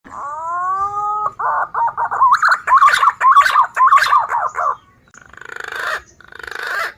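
Punai (green pigeon) calls played back as a bird lure: a rising whistle, then a fast run of warbling whistled notes, then two harsh rasping notes near the end.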